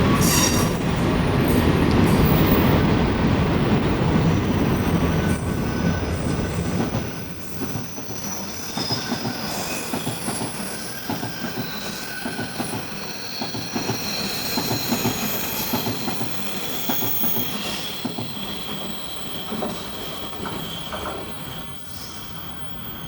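A long freight train rolling past, its wheels rumbling and clattering loudly for the first seven seconds or so, then fading. Several high, steady wheel squeals ring out over the rumble as the wagons go by.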